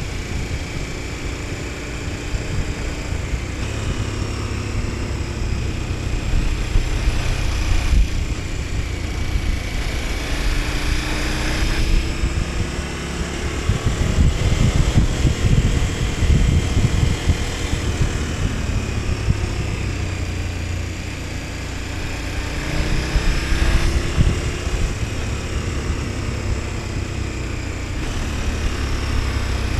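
KTM 1290 Super Adventure S V-twin engine under way, its pitch climbing and falling several times as the throttle is opened and closed through the gears, over a steady low rumble and wind noise on the microphone.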